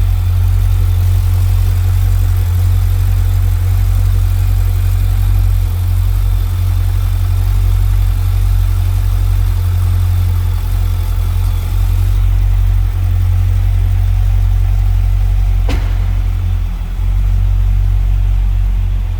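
2006 Corvette Z06's 7.0-litre LS7 V8 idling steadily, with a deep, even drone. A single sharp click comes about sixteen seconds in.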